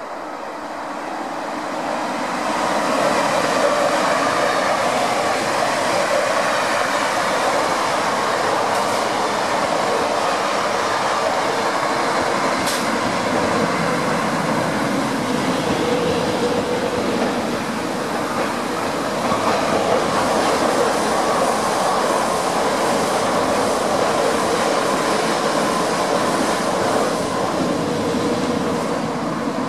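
Double-deck electric commuter train running past close by, its wheels rumbling steadily on the rails; the sound builds over the first few seconds, then holds.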